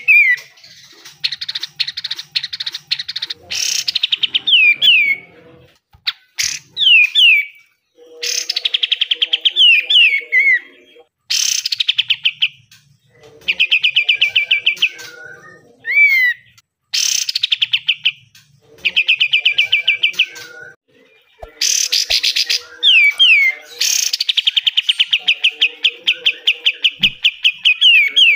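Kapas tembak (katem) songbird singing its harsh, aggressive 'besetan' song: rapid rattling trills lasting one to a few seconds each, broken by short falling whistled notes and brief pauses.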